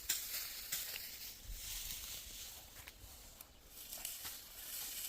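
Dry barley stalks rustling and crunching as they are handled during hand harvesting, with scattered sharp crackles.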